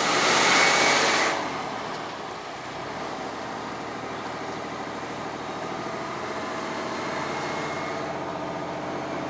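Truck engine running hard under load on a steep snowy climb, with the pedal held to the floor and its pitch rising slightly later on. A loud hiss covers the first second or so.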